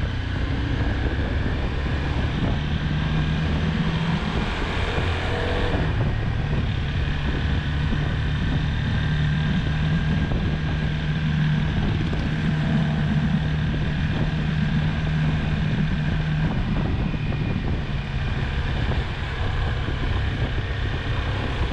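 Honda CBR250R single-cylinder engine running steadily while the motorcycle is ridden. The engine note rises over a couple of seconds, then drops about six seconds in.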